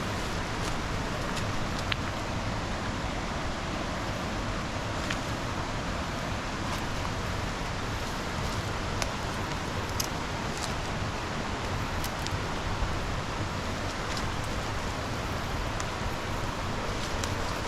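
Steady rush of flowing river water, with scattered faint clicks and snaps of footsteps on the ground.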